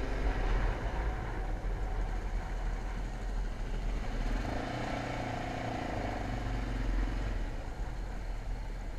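Motocross motorcycle engine running steadily.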